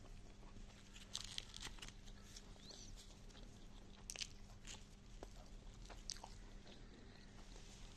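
Quiet, close-up chewing and mouth sounds of someone eating potato and egg bhujia: soft wet smacks and clicks, a few louder ones about a second in, around four seconds in and around six seconds in. A faint steady low hum runs underneath.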